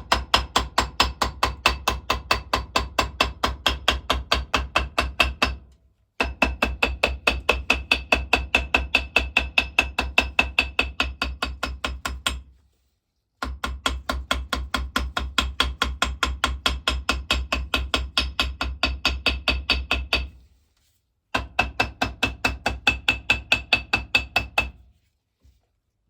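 Ball peen hammer tapping rapidly and evenly on cereal-box cardboard laid over the water pump's end, cutting out a gasket against the edge of the metal face. The taps come at about five a second in four runs, with short pauses between them and stopping near the end.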